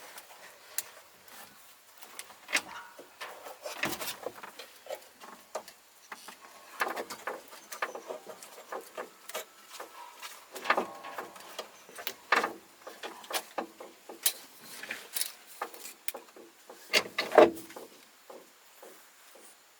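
Hand work with tools and parts: irregular clicks, light knocks and scrapes, with a few louder knocks about halfway through and again near the end.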